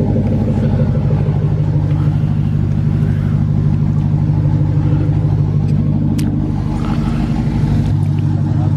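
Chevrolet Silverado single-cab pickup's engine idling steadily.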